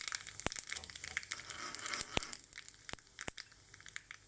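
Mustard and cumin seeds crackling and spluttering in hot oil during a tempering, with a few sharper pops; the crackle thins out after about two seconds.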